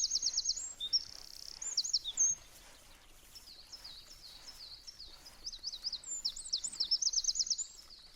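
Small songbird singing in runs of rapid, high chirps. One bout fills the first two seconds and another comes near the end, with fainter chirping in between.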